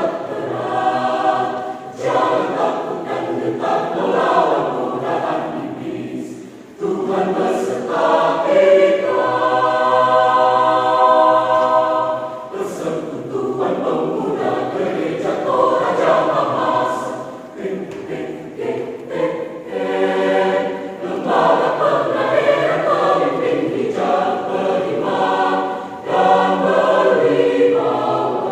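Church choir singing in phrases, with a long held chord about nine to twelve seconds in.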